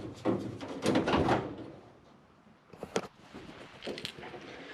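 Hood of a 1963 Chevy II Nova being popped and raised: metal latch and hinge handling with rattles in the first second and a half, then sharp clicks about three and four seconds in.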